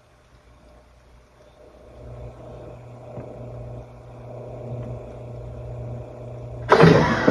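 Panasonic NA-FA80H8 washing machine running mid-cycle: its motor hums, starting about two seconds in and growing louder, and near the end there is a short, loud burst of noise.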